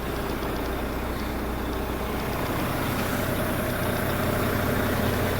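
Semi truck's diesel engine idling steadily, growing slightly louder toward the end.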